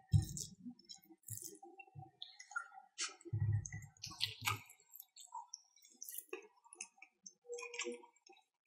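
Close-miked ASMR eating: wet mouth clicks and chewing as fried beef and rice are eaten by hand, with a few soft low thuds near the start and again about three and a half seconds in.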